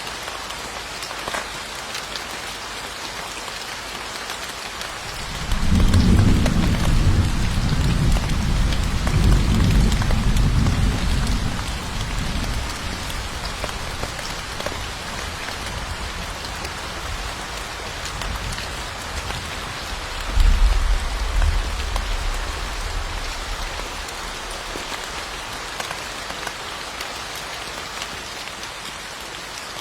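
Steady rain falling, with a long low roll of thunder starting about five and a half seconds in and lasting several seconds, then a second, shorter rumble about twenty seconds in.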